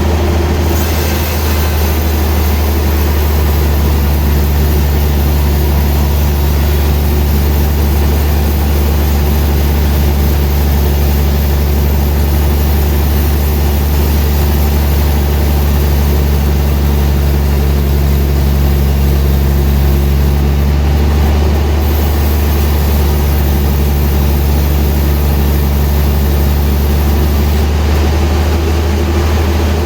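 Sawmill machinery running with a loud, steady low drone. A second, higher hum comes in a few seconds in and drops away near the end.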